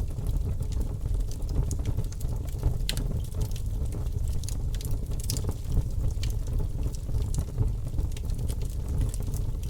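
Wood fire in a fireplace crackling: irregular sharp pops and crackles over a steady low rumble of the flames.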